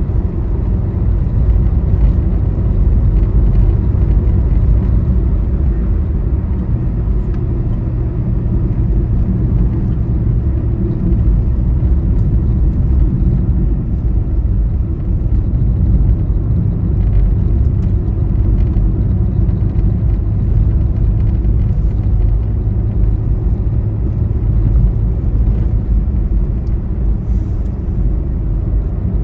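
Steady low rumble of a vehicle travelling along a highway: road noise and engine running without a break.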